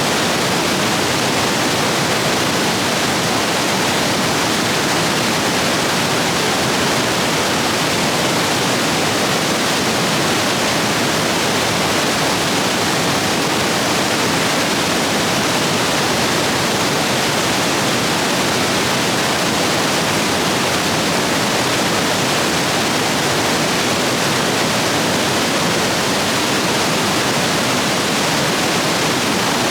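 Rain-swollen stream rapids rushing over rocks: a steady, loud, even roar of white water.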